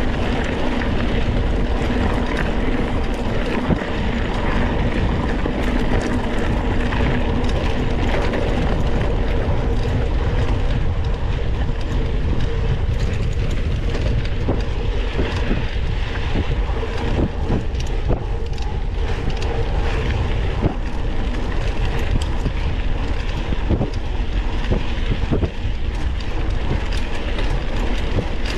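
Mountain bike ridden over a rough dirt trail, heard from an onboard camera: steady wind rumble on the microphone, with frequent clicks and rattles from the bike over bumps.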